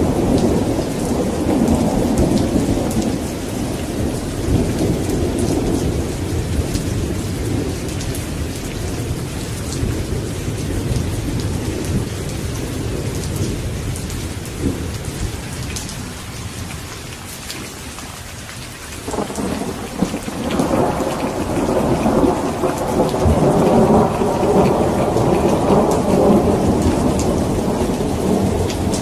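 Steady rain with rolling thunder. A long rumble dies away over the first half, then a new peal breaks in suddenly about two-thirds through and keeps rumbling.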